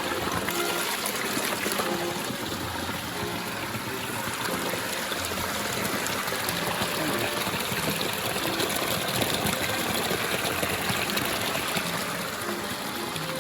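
Running water trickling and splashing in a steady flow, with a fine crackle throughout.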